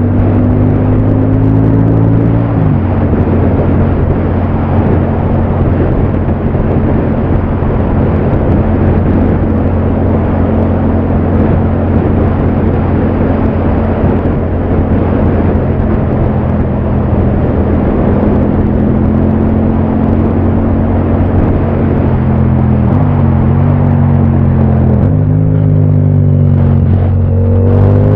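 Yamaha MT-07's parallel-twin engine running under way, with heavy wind and road noise. The engine note rises and then drops at a gear change a couple of seconds in, holds steady while cruising, shifts a few times near the end and then climbs as the bike accelerates.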